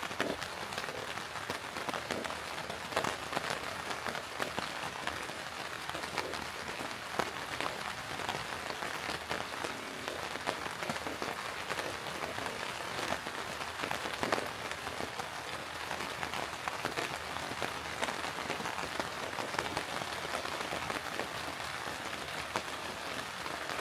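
Steady rain falling through leafy woodland, an even hiss with many separate drops ticking close by.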